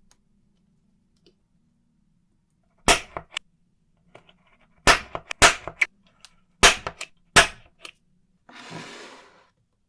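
About seven sharp knocks or clacks in irregular groups, as of hard objects struck or set down on a workbench, followed near the end by a short hiss lasting about a second.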